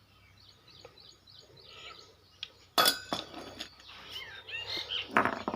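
Small birds chirping in the background, with one sharp clink about three seconds in.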